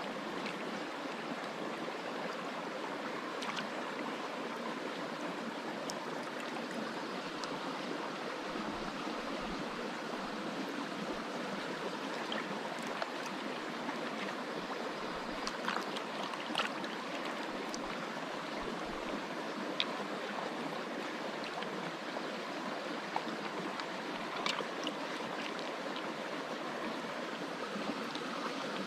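Mountain creek running steadily, a constant rushing of water with a few small clicks scattered through it.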